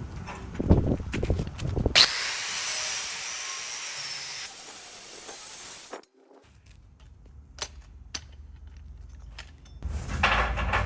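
Stick-welding arc on a 7018 rod, a steady hiss and crackle, breaking off abruptly about six seconds in. A quiet low hum with scattered clicks follows, then a louder rough scraping sound near the end.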